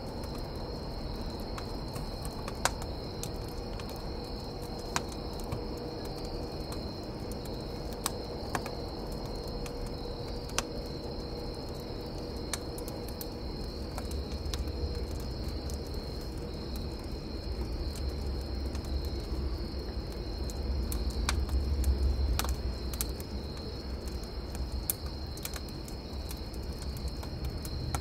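Crickets chirping steadily, with a wood campfire crackling and popping in sharp, scattered snaps. A low rumble builds through the second half and fades again near the end.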